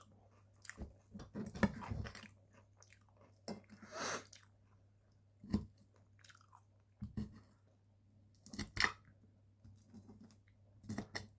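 Close-miked chewing and biting of food, with occasional crunches, coming in short irregular bursts with pauses between.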